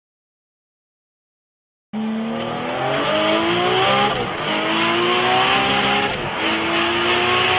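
Silence for about two seconds, then a Jawa 20 moped's single-cylinder two-stroke engine under way. Its pitch climbs, drops suddenly at two gear changes about two seconds apart, and climbs again, over a steady rush of wind and road noise.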